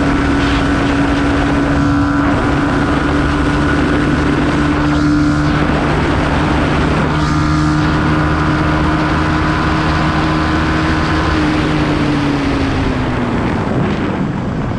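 Motorcycle engine running at steady revs, with wind noise rushing over the microphone; near the end the engine note falls as the bike slows.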